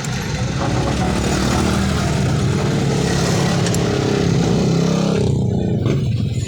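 Yamaha Mio Sporty scooter's small single-cylinder engine running. It is revved up about a second in, held there, and drops back to idle about five seconds in.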